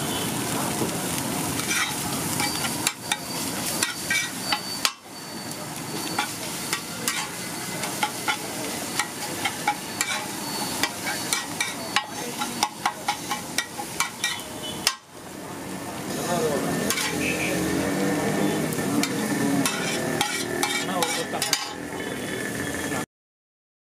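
Fish and egg sizzling in oil on a large flat tawa, with a steel spatula scraping and clacking against the griddle many times. The sound cuts off abruptly near the end.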